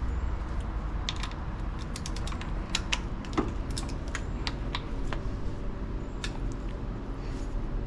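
Irregular sharp clicks and taps of a hand tool on metal, as the reverse-threaded variable valve timing solenoid is worked loose on the engine, over a steady low hum.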